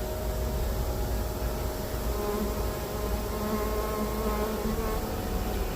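A honeybee swarm buzzing: the steady, even hum of many bees on the move together.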